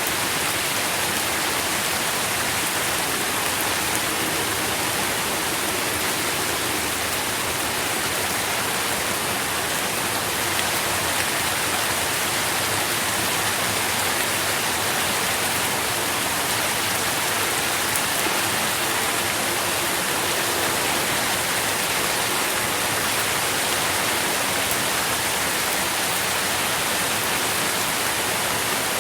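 Steady rain falling, a dense even hiss of drops with faint pattering.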